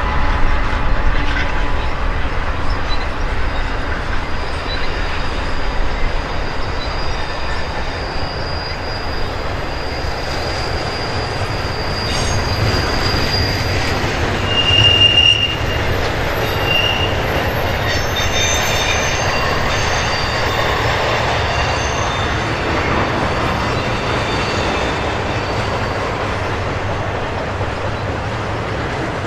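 Long container freight train rolling past, a steady rumble of the cars on the rails with thin high wheel squeals coming and going, one briefly louder about halfway through.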